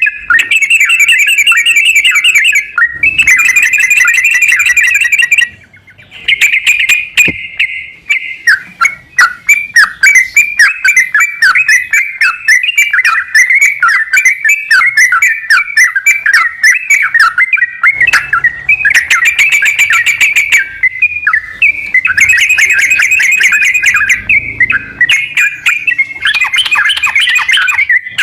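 Yellow-vented bulbul (trucukan) song: loud, fast chattering trills, almost without a break, with one short pause about five and a half seconds in.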